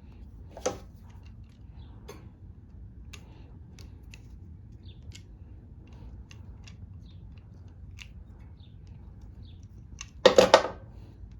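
Small clicks and taps of parts and tools being handled while a lawn mower's carburetor and fuel-line clamps are refitted, with a sharper knock about a second in and a louder clatter near the end.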